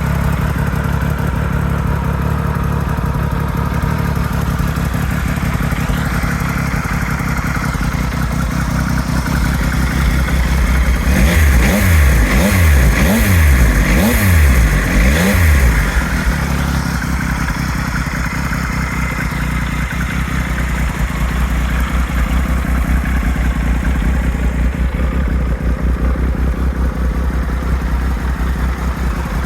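Triumph Tiger 1200 XCX inline three-cylinder engine idling through an Arrow silencer. About eleven seconds in it gets a quick run of throttle blips, each rev rising and falling, for about five seconds, then settles back to a steady idle.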